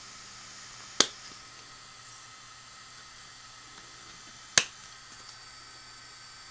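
Two sharp clicks, about three and a half seconds apart, over the steady whir of a small cooling fan running.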